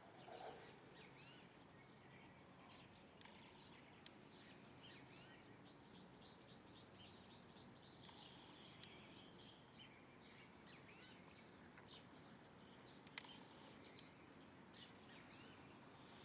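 Faint chorus of small birds chirping over steady background noise, with many short, quick notes throughout and a single sharp click about 13 seconds in.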